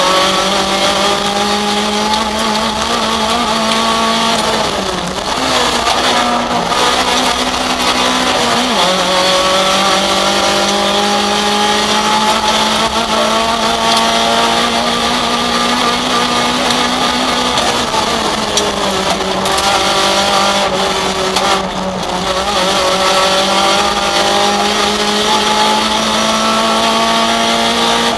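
Rally car engine heard from inside the cockpit, driven hard. It revs up in pitch through the gears and drops back at each gear change, easing off briefly about five seconds in and again around twenty-one seconds in.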